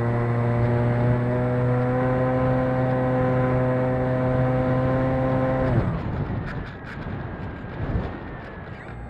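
Electric RC airplane's motor and propeller running at a steady high throttle with an even whine, then cut off suddenly about six seconds in. Wind buffeting the microphone follows, with a few faint clicks.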